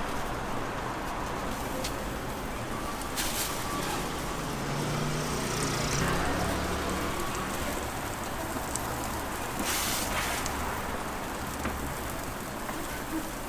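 Toast-truck griddle sizzling steadily over street traffic noise, with a low rumble around the middle and two brief clatters.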